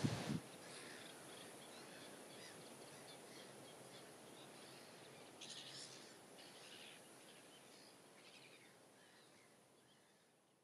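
Faint scattered bird calls over a low steady hiss, fading away near the end.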